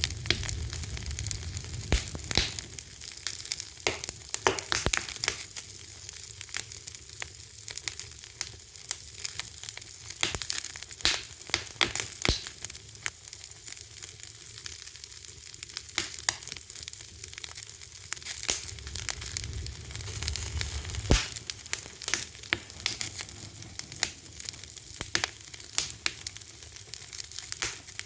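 Wood fire crackling: a steady hiss with dense, irregular pops and snaps, a few sharper loud cracks among them.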